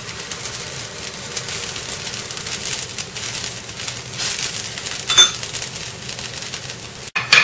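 Oil sizzling and crackling steadily under a sabudana paratha frying on a hot tawa, with a metal spoon clinking once against the pan about five seconds in. The sound cuts out briefly near the end.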